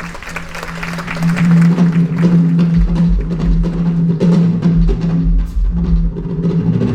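Live percussion show music: rapid rhythmic tapping and drum hits over a sustained low note, with a heavy bass beat coming in about three seconds in.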